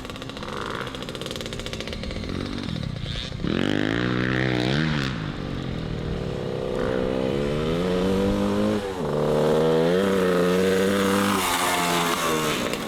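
Dirt bike engine revving up and down several times, the pitch climbing and dropping. The rider says it runs rough, will not rev out and spits and sputters, which he blames on a fouled spark plug.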